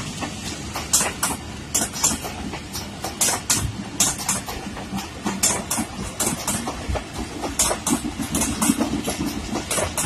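Pakistan Railways passenger coaches passing close by: a steady rumble of rolling wheels, broken by sharp clacks in quick pairs and groups as the wheelsets cross the rail joints.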